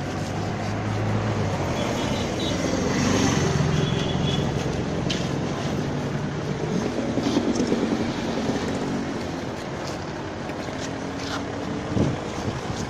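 Maserati Ghibli's engine running at low revs as the car creeps down a car-carrier ramp, its pitch shifting gently, with a single thump near the end.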